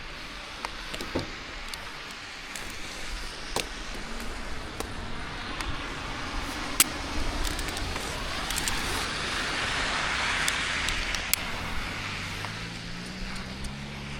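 A vehicle passing, its noise swelling and then fading, over scattered small clicks and knocks; a low engine hum comes in near the end.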